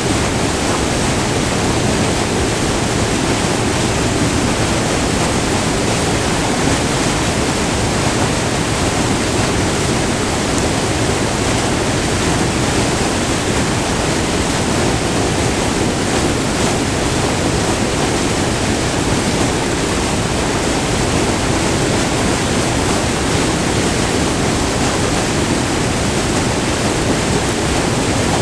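Small multi-tiered river waterfall: white water rushing over rock, recorded up close, loud and unbroken.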